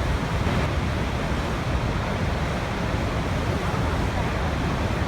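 Waterfall: a steady, unbroken rush of falling water, deep and even, like natural white noise.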